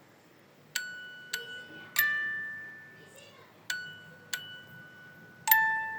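Bright struck chime notes like a glockenspiel, six of them spaced unevenly. Each note rings out and fades over about a second, and the last one is the loudest and lowest.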